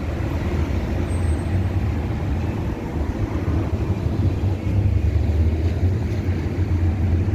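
Outdoor street ambience: a steady low rumble of passing road traffic.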